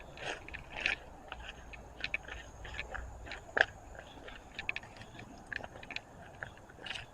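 Footsteps crunching and scraping through dry brush and leaf litter: irregular crunches and twig snaps, with one louder snap a little past halfway.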